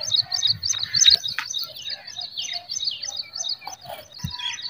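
A small bird chirping over and over, several short high chirps a second in a steady run, with a few sharp knocks about a second in.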